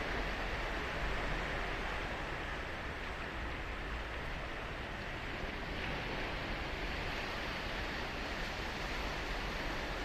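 Ocean surf on a sandy beach: a steady wash of breaking waves with no single distinct crash.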